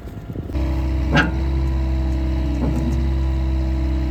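Skid steer engine running steadily, starting abruptly about half a second in, with a couple of short mechanical sounds over it.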